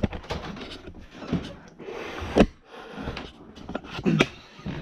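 Handling noise: irregular knocks and bumps over rubbing and scraping, as things are moved about, with sharper knocks about a second and a half, two and a half and four seconds in.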